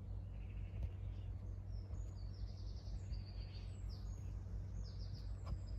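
Small birds chirping and singing in short, repeated trilling phrases, over a steady low background rumble.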